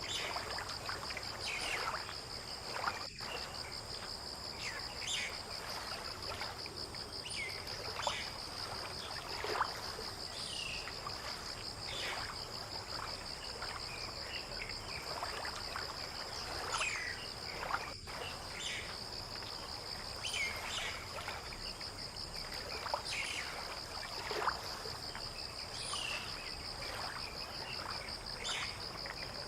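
Outdoor dawn ambience: insects trill steadily at a high pitch, while birds give many short, scattered chirps over a low background rumble. The sound drops out briefly twice.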